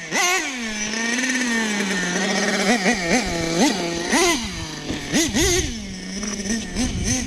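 Team Associated MGT 3.0 RC monster truck's .21 nitro engine running. It settles to a steady low note for a couple of seconds, then revs in a string of short, quick throttle blips that rise and fall in pitch.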